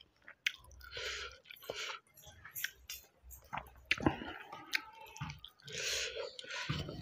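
A man chewing mouthfuls of soft rice with wet, smacking mouth sounds and irregular clicks, while his bare hand squishes and mixes rice on a steel plate.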